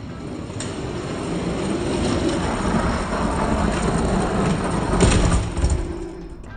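Two die-cast toy monster trucks rolling fast down a gravity race track, a steady rumble of small wheels on the track that builds up. It is loudest about five seconds in and stops abruptly near the end.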